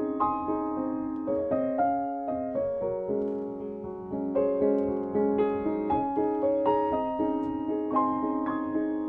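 Solo piano music, gentle and slow, notes struck about two a second and left to ring and fade.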